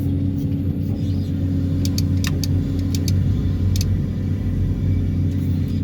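Excavator and its vibro hammer rig running with a steady low drone of engine and hydraulics, with a few faint ticks about two seconds in and near four seconds.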